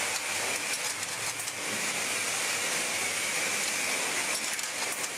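Car wash running with a steady hiss, unbroken throughout.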